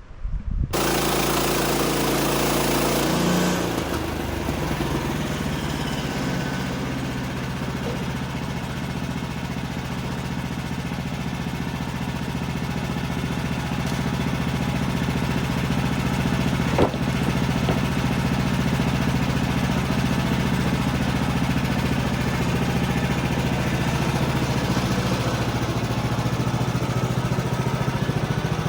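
Woodland Mills bandsaw sawmill's gas engine running steadily while the band blade makes a cut through a yellow poplar log; the engine sound comes in about a second in, settles under load a few seconds later, and a single sharp knock is heard about midway.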